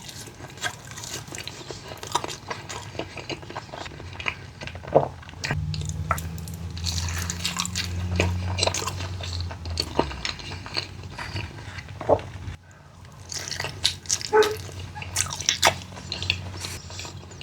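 Close-miked eating: chewing and biting with frequent small wet clicks, smacks and light crunches of food in the mouth.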